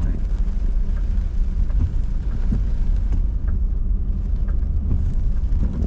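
Car driving slowly on a wet road, heard from inside the cabin: a steady low rumble of engine and tyres with a light hiss of rain and road spray.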